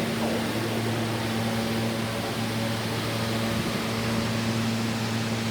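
Steady low hum and even rushing noise inside an E train subway car.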